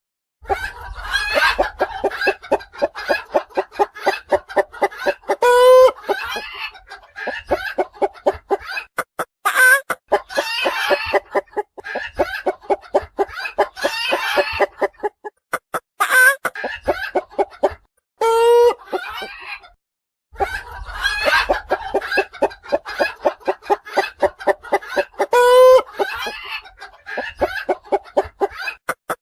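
Domestic hens cackling: fast runs of clucks broken now and then by a loud, drawn-out squawk, repeating over and over with a couple of short pauses.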